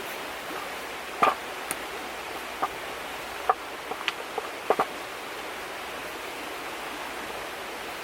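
Steady rushing of a nearby river, with a handful of short sharp clicks and knocks scattered over the first five seconds.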